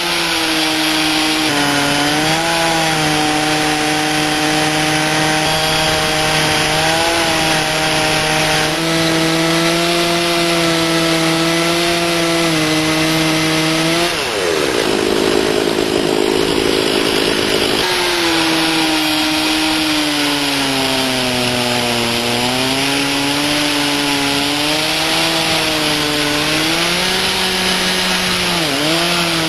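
Two-stroke chainsaw in an Alaskan chainsaw mill running at full throttle as it rips a cedar log lengthwise into a slab. The engine pitch sags and recovers as the chain loads up in the cut. About halfway through, the steady engine tone briefly gives way to a rougher noise for a few seconds.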